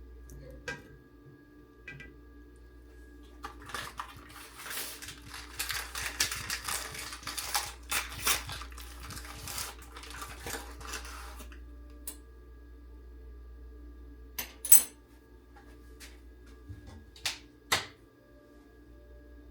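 Kitchen dishes and utensils clattering and clinking: a busy run of several seconds of rattling, then a few separate sharp clinks, one of them much louder, over a steady background hum.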